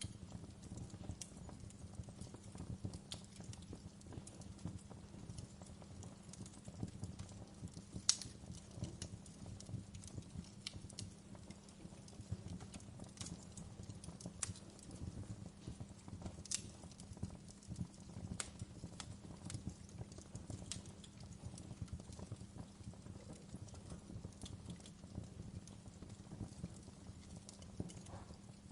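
Wood fire crackling: a steady low rumble of the burning fire with frequent irregular sharp pops and snaps, the loudest about eight seconds in.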